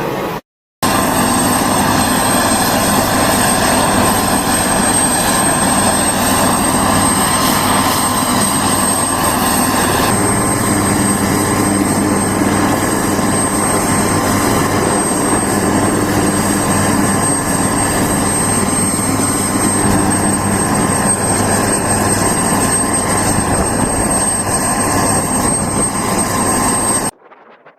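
Bell AH-1Z Viper attack helicopter running steadily: dense engine and rotor noise with a constant high-pitched turbine whine. It cuts off abruptly near the end.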